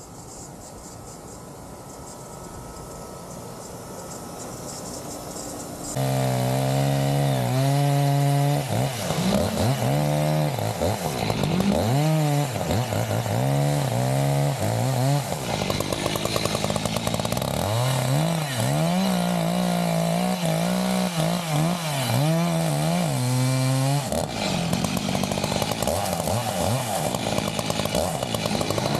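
Chainsaw cutting the face notch in a standing tree for felling. It starts quietly, turns loud about six seconds in, and its engine pitch then rises and falls again and again as it revs in and out of the cut.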